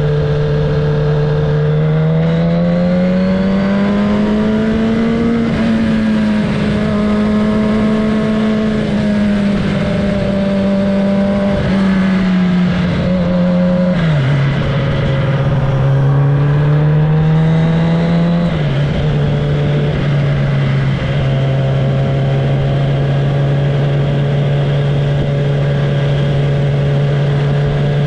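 Kawasaki ZX-10R inline-four engine running loud through an exhaust with the tailpipe removed, under way at cruising revs. The note climbs over the first few seconds, holds and eases, then drops sharply twice in the second half, as on upshifts, and settles to a steady pitch.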